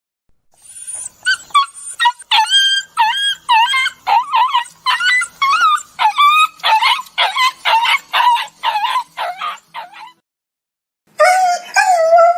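A dog whining and whimpering: a long run of short, high-pitched cries, about two a second. After a pause of about a second, a longer drawn-out whine begins near the end, sliding down in pitch.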